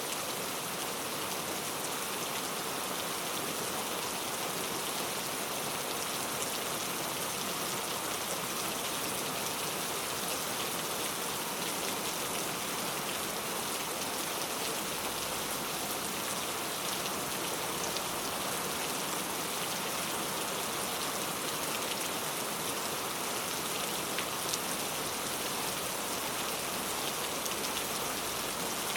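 Steady rain falling on a surface: a dense, even hiss of drops with small individual drop ticks scattered through it.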